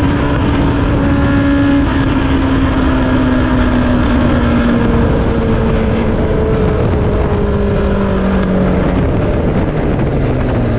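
Honda CB400 Super Four's inline-four engine through a Rombo aftermarket exhaust, its revs falling slowly and steadily as the motorcycle slows down, over a loud rush of wind and road noise.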